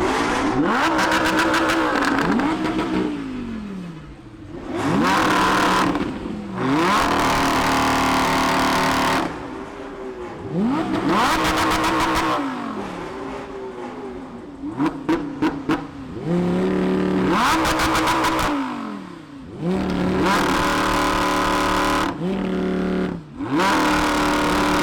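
Performance car engines revving and accelerating again and again, the pitch climbing and dropping away each time. Several short clusters of sharp pops are mixed in.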